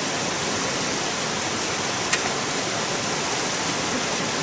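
Heavy rain falling in a steady hiss, with one sharp tick about two seconds in.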